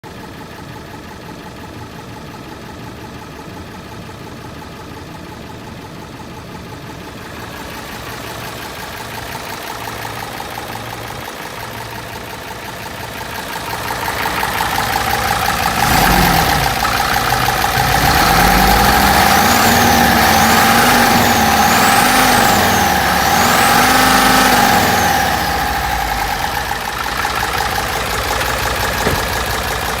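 Hino J08C inline-six diesel engine of a Hino FM truck idling, then brought up in speed from about halfway and revved up and down several times before easing back toward idle near the end.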